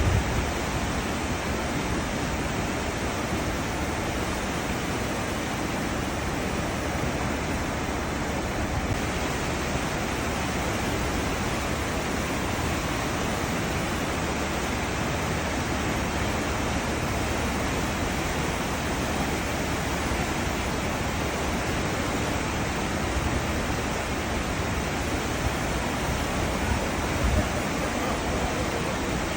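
Cruise ship's wake: a steady, even rush of churning seawater, with one brief low bump near the end.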